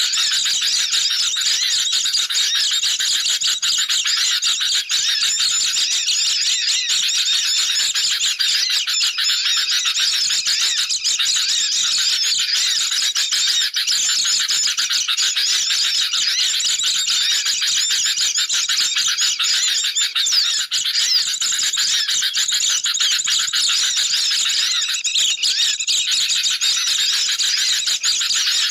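Dense, unbroken chattering and twittering of many birds at once: a bird-lure track mixing the noisy calls of sooty-headed bulbuls (kutilang) with the high twittering of white-eyes (pleci).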